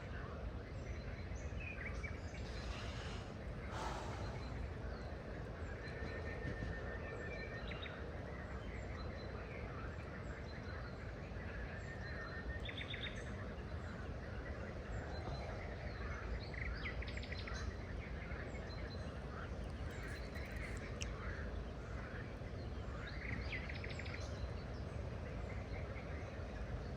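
Birds calling and chirping in short, scattered calls, with a few short trills, over a steady low background noise.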